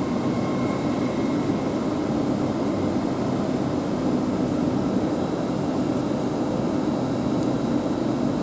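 A passenger train standing at the platform, its onboard equipment running with a steady hum and drone.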